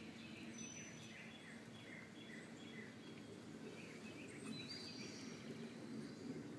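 Faint outdoor ambience with birds chirping: a string of short chirps and, about four and a half seconds in, a brief higher whistle over a steady low hiss.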